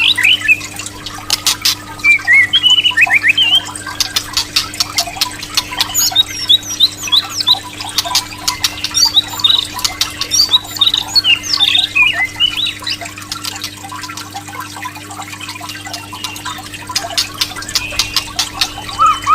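White-rumped shama (murai batu) calling: short chirps and whistled notes mixed with rapid sharp clicking, the agitated calls used as a lure to provoke a caged shama into singing. The calls thin out briefly a little past the middle.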